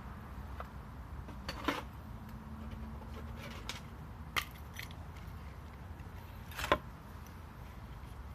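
Handling noises of camp gear: three short, sharp metallic clicks and scrapes, the loudest about two-thirds of the way in, with a few fainter ticks between them over a low steady hum.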